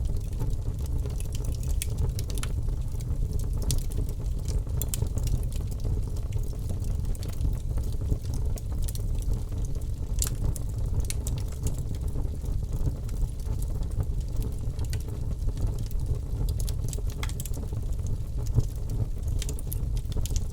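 Birch logs burning in a fireplace: a steady low rumble of the flames with irregular sharp crackles and pops scattered throughout.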